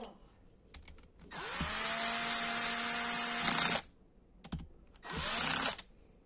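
Cordless drill-driver with its clutch set low running the cylinder-head nuts down onto the studs of a Honda CR250R two-stroke engine: the motor spins up to a steady whine for about two and a half seconds, then does a second short run near the end, with light clicks of the socket being moved onto the nuts in between.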